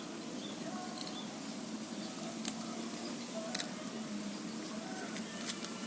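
Zebra dove (perkutut) cooing in short, soft notes, with faint chirps of other birds and two sharp clicks about two and a half and three and a half seconds in.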